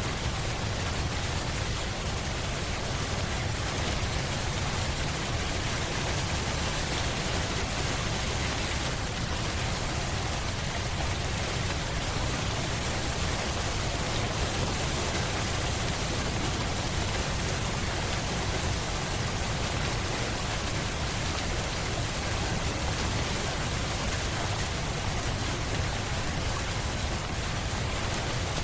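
Steady rain falling, an even hiss with no single drops standing out and no change in strength.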